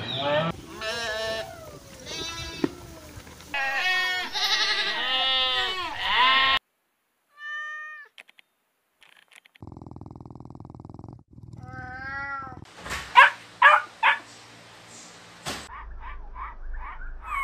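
A domestic cat meowing repeatedly, one wavering call after another, for the first six seconds or so. After a pause, a dog's short, sharp calls come in the second half.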